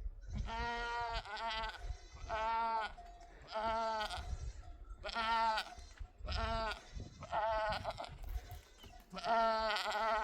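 Flock of sheep bleating: about eight or nine separate quavering bleats, one after another, some overlapping.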